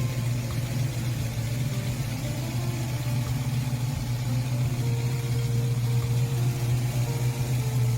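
Car engine idling steadily, with faint music notes above it.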